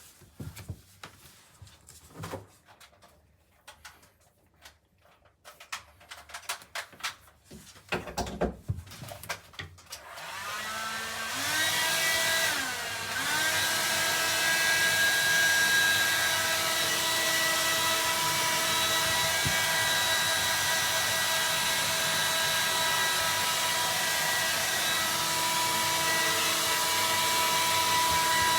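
Hair dryer switched on, its motor whine rising as it spins up, dipping briefly and rising again, then running steadily at full speed. Before it starts there are only faint scattered rustles and small taps.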